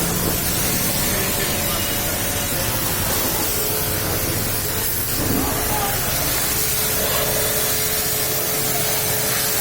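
High-pressure water spray hissing steadily from a car-wash pressure washer.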